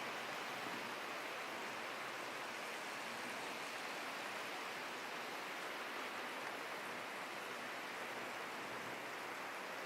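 Staubbach Falls, a tall free-falling waterfall, rushing with a steady, even hiss of falling water and spray.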